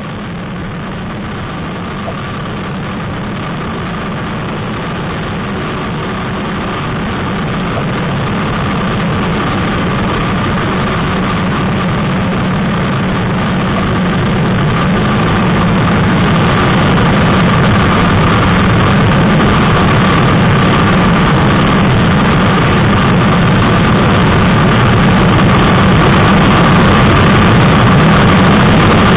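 Yamaha YZF-R3's parallel-twin engine running hard under heavy wind rush, heard from the rider's position. Both grow steadily louder as the bike accelerates toward top speed into a strong wind.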